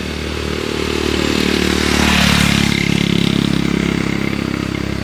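A motorcycle engine running close by, growing louder to a peak about two seconds in and then easing off.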